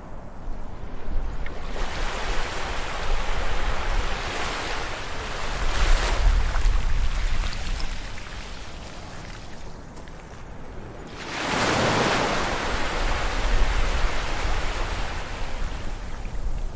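Ocean waves breaking on a beach and washing up the shore: one wave swells and breaks a couple of seconds in, and after a brief lull a second, louder wave breaks about eleven seconds in and slowly fades as it runs out.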